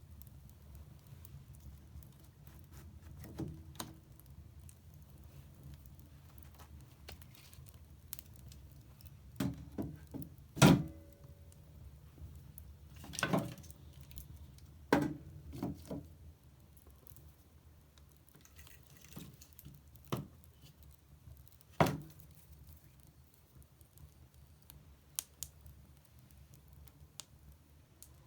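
Wood fire burning in a fireplace: a low steady rumble of flames with irregular sharp crackles and pops, the loudest pop about eleven seconds in.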